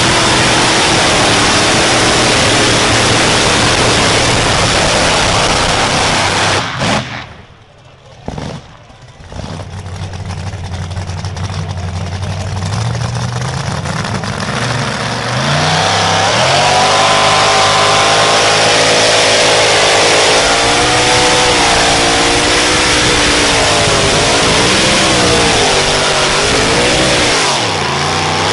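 A pulling vehicle's engine running hard and loud. The sound drops away briefly about seven seconds in, then an engine's pitch climbs and it revs up and down repeatedly.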